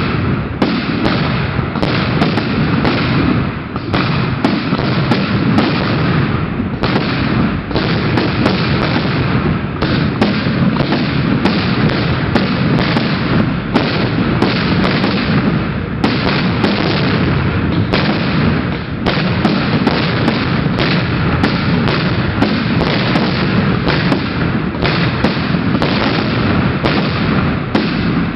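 Aerial fireworks salute: a dense, continuous barrage of shell bursts, booms and crackling, with the bangs overlapping one another.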